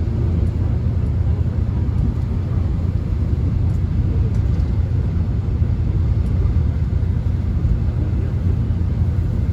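Steady low rumble of a subway train heard from inside the carriage as it runs, with no distinct events.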